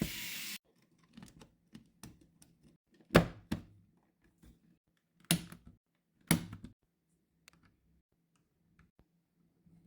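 A short hiss at the very start, then sparse light plastic clicks and a few sharp knocks as the PS5 Scuf Reflex controller's parts and shell are handled and snapped back together.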